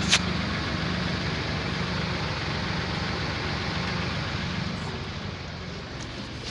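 Tractor engine idling steadily, with one sharp click right at the start; the engine sound eases off a little near the end.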